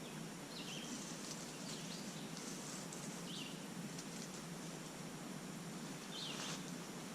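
Outdoor ambience of small birds calling: a handful of short, high chirps that drop in pitch, heard about four times, over a steady background hiss.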